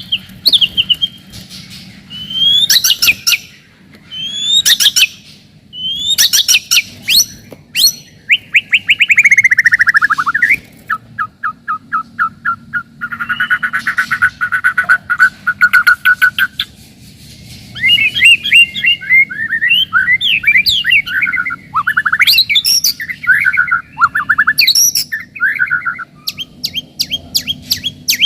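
White-rumped shama singing a loud, varied song of sweeping whistles, fast trills and rapid repeated notes, phrases following one another with short gaps.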